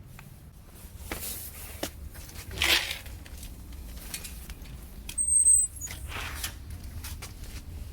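Scattered rustling and light knocks as a dog goes at a snake toy, with a louder scuffle a little under three seconds in and a brief high squeak about five seconds in.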